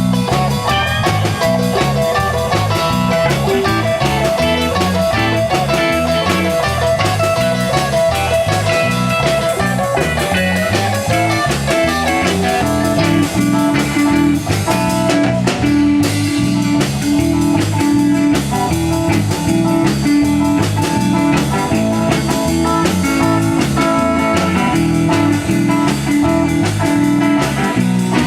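Live blues-rock band playing an instrumental stretch: electric guitar lead over bass and drum kit.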